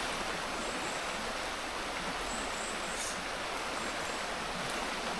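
Steady rush of flowing river water, an even hiss without changes.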